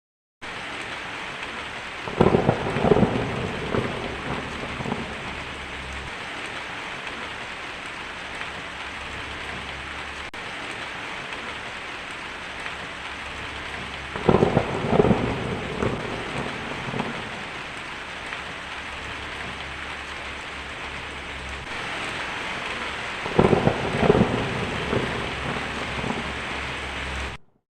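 Steady heavy rain with three rolls of thunder, each a sharp crack followed by a rumble that dies away over a few seconds, about 2, 14 and 23 seconds in. The rain cuts in suddenly just after the start and stops suddenly near the end.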